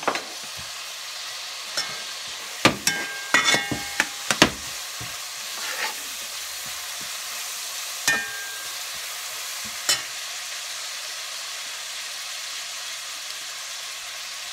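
Chopped onions and whole spices frying in oil in a large metal pot: a steady sizzle, with a slotted spatula scraping and clinking against the pot, busiest in the first four seconds or so and twice more near the middle, then only the sizzle.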